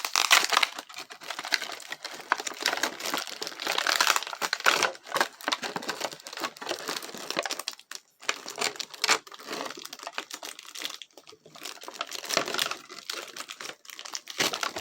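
Cardboard and plastic packaging being handled and pulled apart by hand: irregular crinkling and rustling with small tearing sounds, pausing briefly twice.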